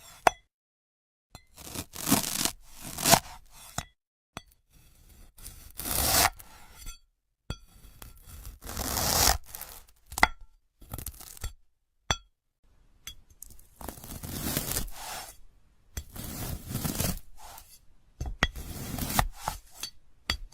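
Crunchy, crackling slices through glass-like 'crystal' fruit: about five separate cuts in a row, each a few seconds of rough crackle with sharp snaps, cut apart by abrupt dead silences.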